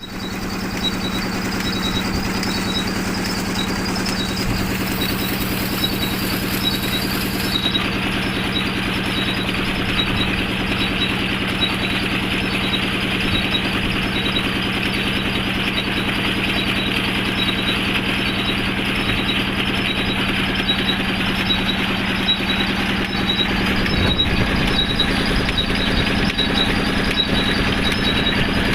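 A 20 hp diesel engine driving a tubewell turbine water pump, running steadily at an even speed. A faint, regular high-pitched tick runs through it.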